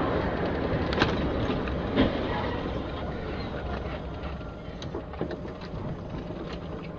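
Road and engine noise of a moving car, picked up by a dashboard camera, fading slowly, with a couple of short knocks about one and two seconds in.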